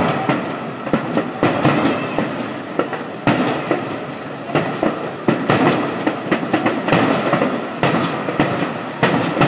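Fireworks going off: a dense run of irregular bangs and crackling, with several sharper reports, about three seconds in and repeatedly from five seconds on.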